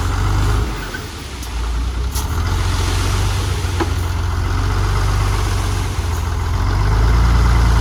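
Dump truck engine running steadily. It dips briefly about a second in and grows louder near the end.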